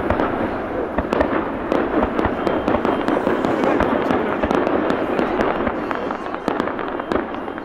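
Fireworks display going off in a dense, continuous barrage of many rapid sharp pops.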